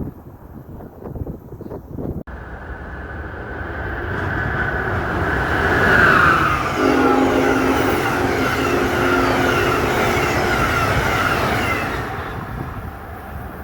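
A train passing at speed: the rush builds over a few seconds, stays loud through the middle, then fades away.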